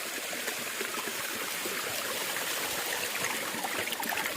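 Shallow stream water of a small waterfall running and trickling over a broad rock slab, a steady rush that grows slightly louder toward the end.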